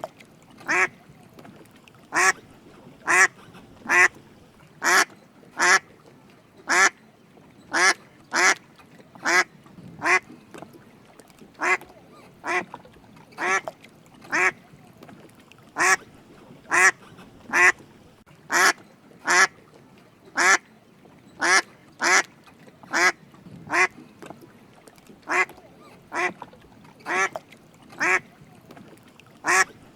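Drake mallard quacking: short calls repeated steadily, about one to two a second, with no pause.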